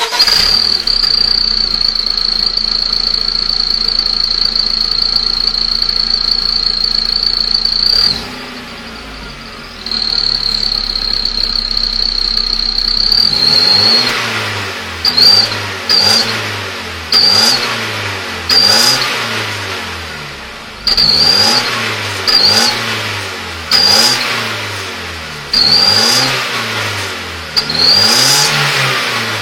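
Car engine fitted with a fake turbo whistler, an exhaust whistle, running with a steady high whistle over it that breaks off about eight seconds in and returns. From about halfway on, a series of short, quick revs follows, each with a brief whistle.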